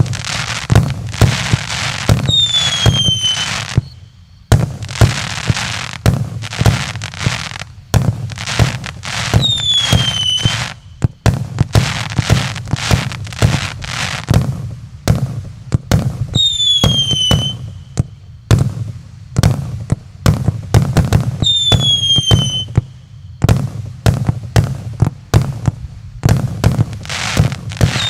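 Multi-shot fireworks cake ("Новогодний залп" JF MC25 battery) firing: a rapid run of bangs and crackling shots. About every six or seven seconds a whistle sounds, falling in pitch.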